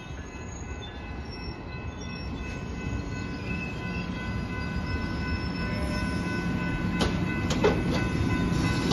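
Amtrak passenger train rolling past the platform: a steady rumble of wheels on rail with a steady high whine over it, growing louder throughout. A few sharp clicks sound about seven seconds in.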